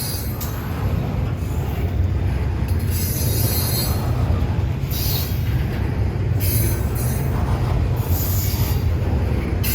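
Train rolling past close by with a steady low rumble of wheels on rail. High-pitched wheel squeal rises and fades in repeated patches every second or two.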